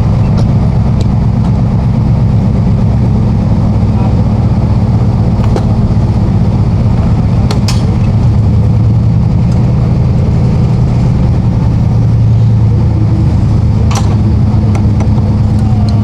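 An engine idling steadily close by, a constant low hum, with a couple of sharp clicks about eight and fourteen seconds in.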